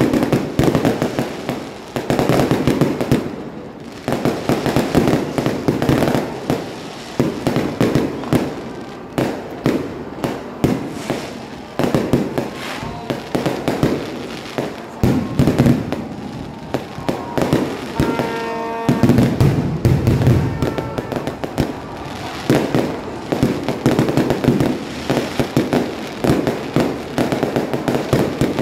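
Fireworks display: a near-continuous barrage of aerial shells bursting, the bangs overlapping with crackle. About two-thirds of the way through, a brief pitched tone sounds over the bangs.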